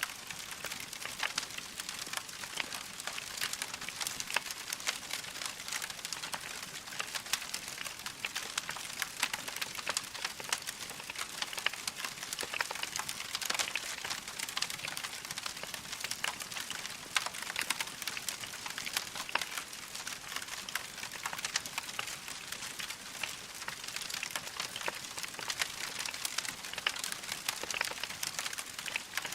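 Log fire crackling steadily: a dense run of small pops and snaps over a soft hiss, with no single loud crack standing out.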